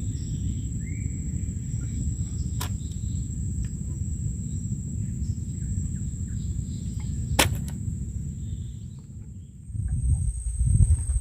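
A steady, high insect trill over a steady low rumble, with two sharp clicks. The rumble dips away briefly near the end.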